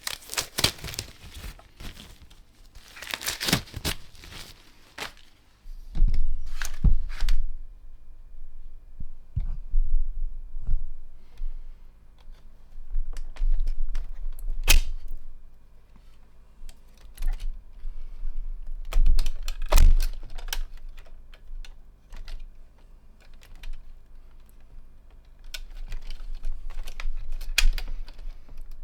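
Irregular clicks, knocks and low thuds of tools and hands working on a receiver chassis while its large electrolytic can capacitors are taken out. The heaviest knocks come about six, fifteen and twenty seconds in.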